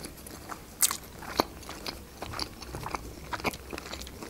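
Close-miked chewing of a mouthful of sushi roll: soft wet mouth clicks and smacks, two sharper ones about a second in and a few more near the end.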